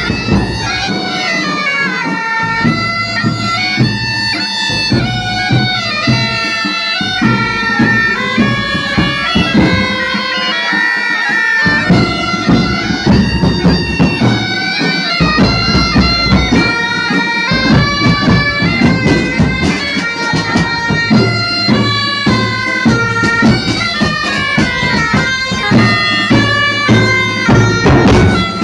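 Traditional music: a loud, bagpipe-like reed wind instrument plays a fast, winding melody over drums. The drumming becomes steady and continuous a little before halfway.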